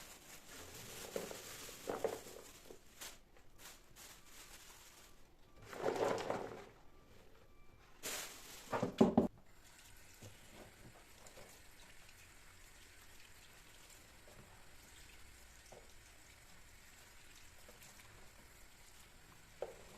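Kitchen sounds of food preparation: water splashing and being poured, with handling noises. The water comes in short bursts, the loudest around six and nine seconds in, followed by a few faint clicks.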